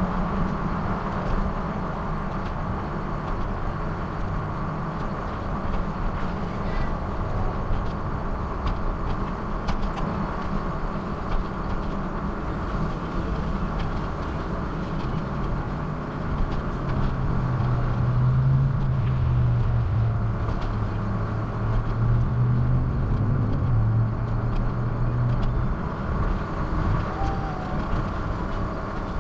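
Steady rumbling road and wind noise while cycling, with a low droning hum from about 17 seconds in until about 26 seconds.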